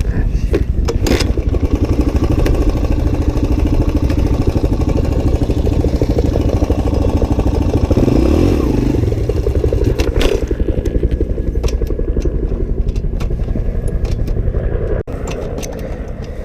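Suzuki DR-Z125's single-cylinder four-stroke engine running unevenly at low revs, with a couple of sharp gearbox clunks as the rider hunts for neutral. About 15 seconds in, the engine note suddenly drops to a quieter, steadier idle.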